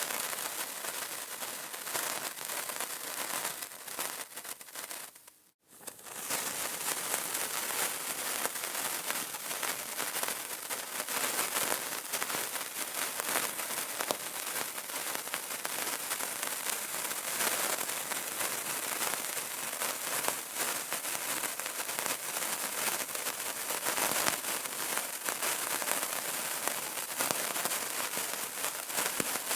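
Burning candle crackling: a dense, steady run of tiny pops and snaps. About five seconds in it fades out for a moment, then comes back.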